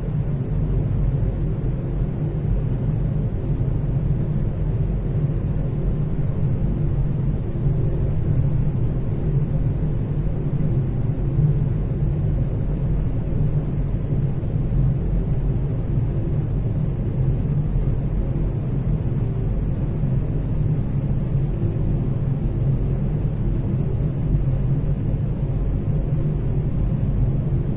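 Room tone of a large hallway: a steady, low ventilation rumble with a faint hum, unchanging throughout.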